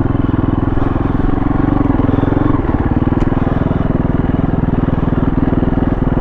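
KTM 350 four-stroke single-cylinder dirt bike engine running steadily under way, its note shifting slightly about two and a half seconds in.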